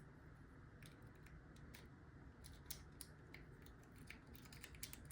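Faint, scattered light clicks of a tickler rake pick being worked in a padlock's keyway, getting a little busier toward the end.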